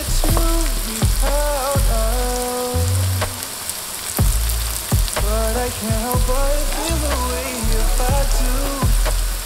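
Curry-battered mushrooms frying in oil in a skillet, a steady sizzle, under a music track with repeated deep bass hits and a gliding melodic line.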